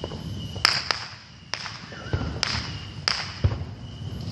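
Fireworks going off: about six sharp bangs at irregular intervals, each with a short echoing tail.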